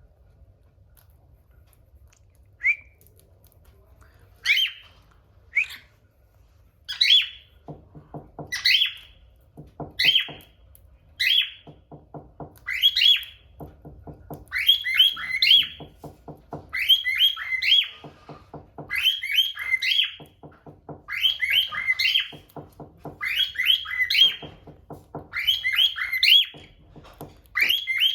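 Cockatiel whistling and chirping in short repeated calls about once a second, starting sparse and growing busier. From about eight seconds in, a lower buzzy, pulsing note alternates with the high calls.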